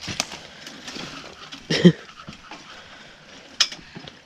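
Scattered knocks and clicks of guns and gear being handled in a tree stand, with one louder thump a little under two seconds in and a sharp click near the end.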